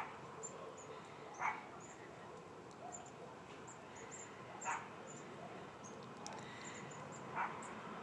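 A flock of small birds calling: many thin, high chirps repeating in quick succession, with three louder, lower short calls about three seconds apart.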